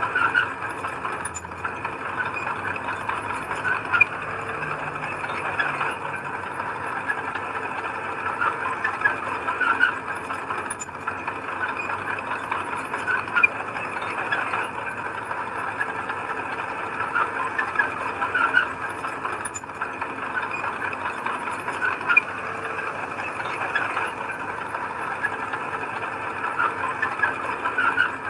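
Heavy earthmoving machinery running steadily, with sharp squeaks and metal rattles every few seconds.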